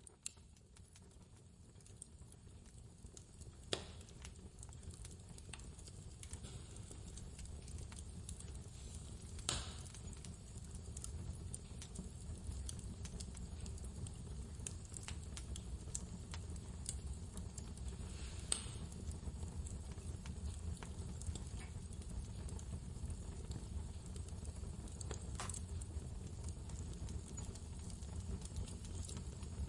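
Wood fire crackling with a few sharp pops, over the steady low rumble of blizzard wind, fading in over the first several seconds.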